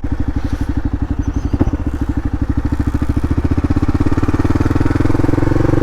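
Kawasaki KLR 650's single-cylinder engine running, its exhaust pulses coming fast and even, and growing louder over the last couple of seconds.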